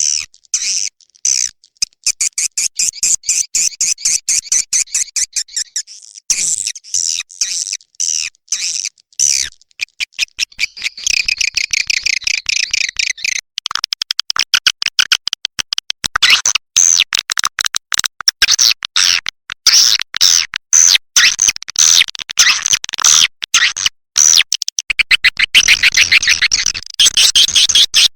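Recorded swiftlet calls, the lure sound played to draw swiftlets into a nesting house: fast, high chirps and twitters in rapid stuttering runs, broken by a few short gaps early on and growing denser about halfway through.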